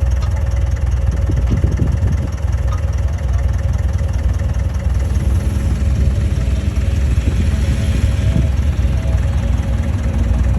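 Heavy earthmoving machine's diesel engine running steadily at a constant speed, with a deep low rumble and a steady hum.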